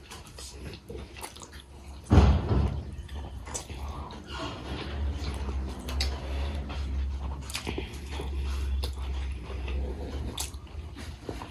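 A person chewing food close to the microphone, with small wet mouth clicks throughout. A loud sudden bump about two seconds in.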